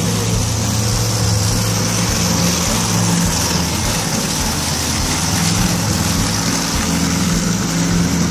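Monster truck engine running loud and steady, with no let-up.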